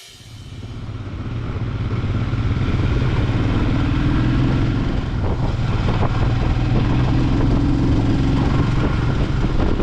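Royal Enfield Himalayan's 411 cc single-cylinder engine running steadily on the move, with wind and road noise. It fades in over the first two seconds.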